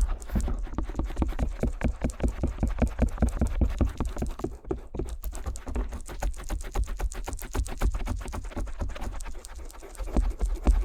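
Stainless steel ear pick rapidly scraping and tapping against the rubber ear of a binaural microphone, about eight to ten strokes a second, with a deep handling rumble. The strokes ease off briefly near the end, then come back louder.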